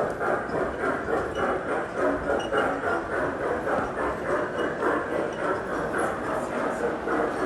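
Model train running along its track, a steady, evenly repeating rhythm of wheels on the rails.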